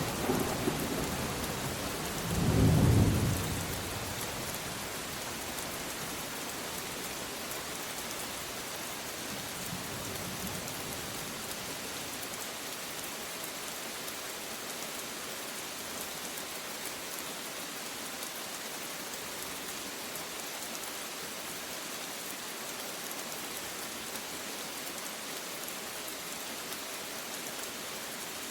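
Steady rain with a low thunder rumble that swells and dies away about two to three seconds in, a fainter rumble near ten seconds, then rain alone.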